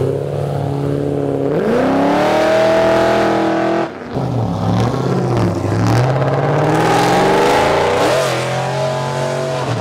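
Car engine revving hard under acceleration. The pitch climbs, drops suddenly about four seconds in, then climbs again.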